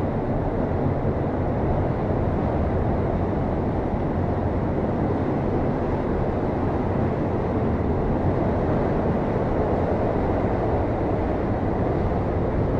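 Hurricane-force wind blowing steadily as a dense, unbroken rushing noise, heaviest in the low end.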